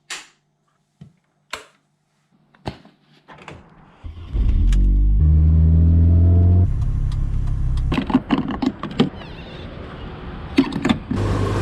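A few clicks and clunks, then about four seconds in an engine starts, climbs in pitch and holds at high revs for a couple of seconds, then drops back to a lower steady idle with more clicks over it.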